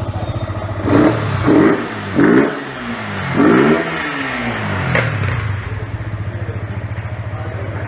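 Yamaha R15 V3's 155 cc single-cylinder engine idling, then blipped four times in quick succession, each rev rising and falling back to idle, with a sharp click about five seconds in. Its firing note is described as changed.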